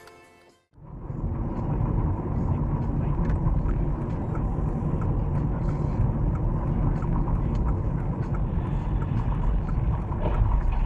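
A car driving, picked up by a dashcam microphone: steady engine and road rumble with faint ticks. It starts under a second in, after a short bit of music cuts off.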